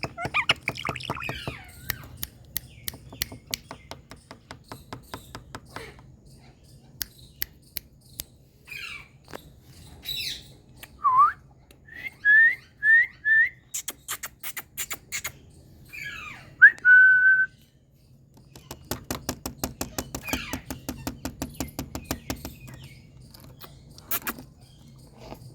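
Indian ringneck parakeet whistling and clicking. A whistled glide comes about a third of the way in, then four quick rising whistles and a held whistle, between runs of rapid clicks.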